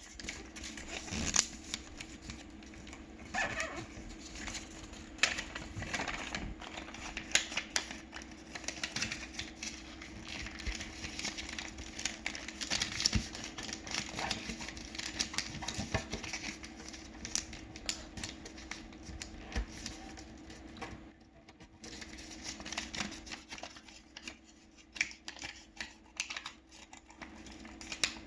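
A sheet of paper being folded and creased by hand: irregular rustling and crinkling with sharp taps and snaps as folds are pressed, over a steady low hum.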